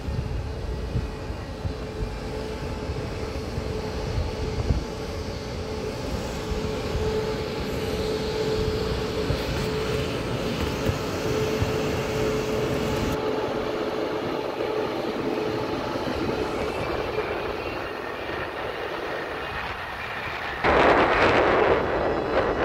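An E1000-series electric push-pull express train moves slowly along the platform, with a steady low rumble and a steady whine that fades out about two-thirds of the way through. Near the end a loud rushing noise starts suddenly.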